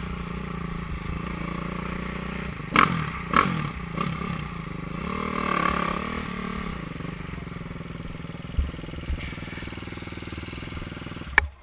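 Motocross dirt bikes running on the track, engines rising and falling in pitch as riders rev through the course, with two sharp knocks about three seconds in. The sound cuts off suddenly near the end.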